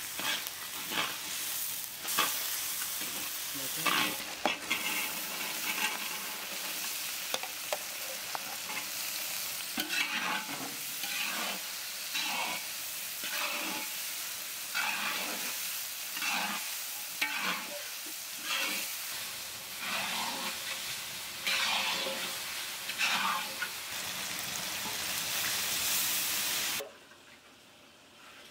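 Sliced onion and then diced potato sizzling in hot oil in a large aluminium wok, with a metal spatula scraping and turning them in repeated strokes about once a second. The sizzle stops suddenly near the end.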